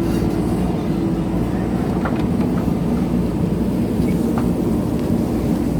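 JCB backhoe loader's diesel engine running steadily under load, with a couple of faint clicks.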